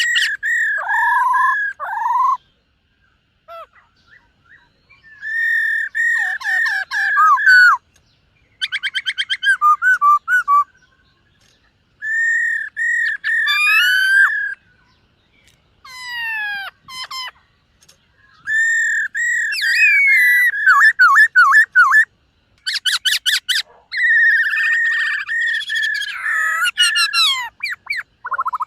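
Black-throated laughingthrush singing: loud phrases of clear whistled notes and rapid warbling, mixed with fast rattling trills, broken by short pauses of a second or so.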